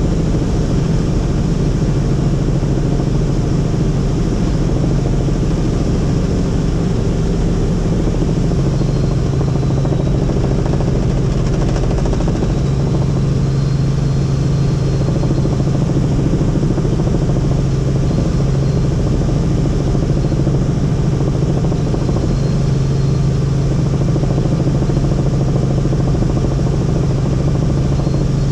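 Helicopter engine and rotors running steadily, a loud constant drone with a low hum and a faint high whine.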